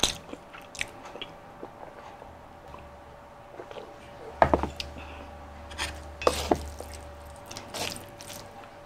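Close-miked eating sounds: a person chewing, with scattered mouth clicks. A few sharper clicks come near the end as a fork works into a plate of palabok noodles.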